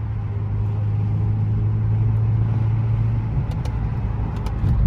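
Car engine and exhaust droning steadily at a constant speed, with road noise, heard from inside the cabin while cruising. A few light clicks come near the end.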